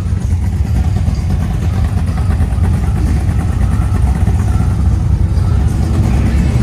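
Deep engine and exhaust rumble of a car driving out.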